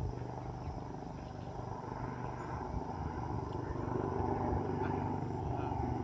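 Helicopter in flight, its rotor and engine noise growing gradually louder.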